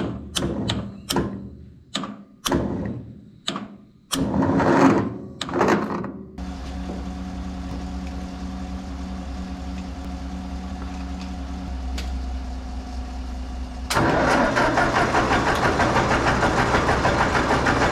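A starter clicking and catching in a series of short strokes as it tries to turn over an engine whose battery or starter solenoid is failing. About six seconds in, an engine settles into a steady idle, and near fourteen seconds it suddenly gets louder and rougher.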